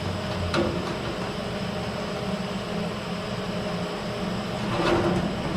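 Steady machine noise, a rushing sound with a low hum such as a running shop fan or air conditioner. Two short metallic clicks cut through it, one about half a second in and a slightly longer one near the end.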